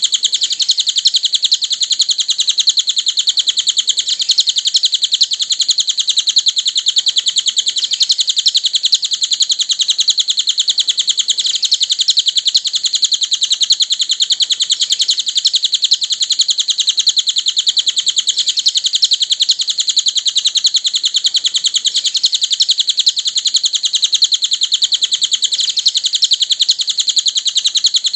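Cililin bird singing: a continuous, rapid, high-pitched chirping trill that runs on at a steady level without a pause.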